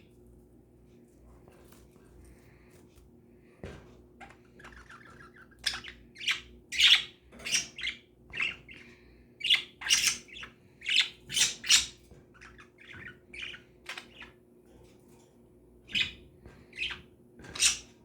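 Pet birds calling: a few faint calls at first, then from about six seconds in a string of loud, short calls, several a second at times. There is a quieter patch past the middle and a few more loud calls near the end.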